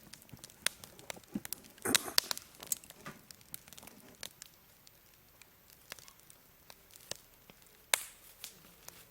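Firewood burning in an open campfire, crackling with scattered sharp pops and snaps: a quick flurry of pops about two seconds in and a single loud pop near the end.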